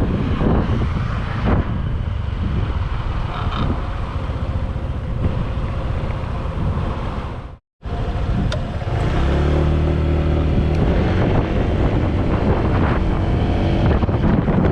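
Wind buffeting the microphone over the running engine of a 2018 Honda PCX150 scooter, a 149 cc single-cylinder four-stroke, on the move. The sound cuts out for a moment about halfway, and after that the engine's steady hum comes through the wind more clearly.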